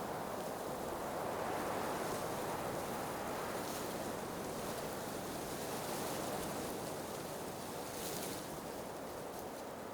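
Blizzard wind blowing in slow swells and lulls, with brief higher hissing gusts about four and eight seconds in.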